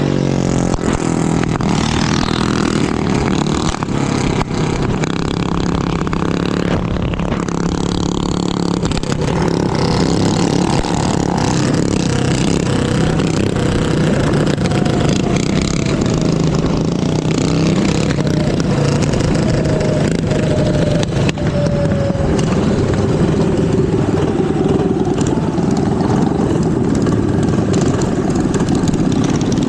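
Small minibike engine running under way, its pitch shifting up and down with the throttle over steady road and wind noise.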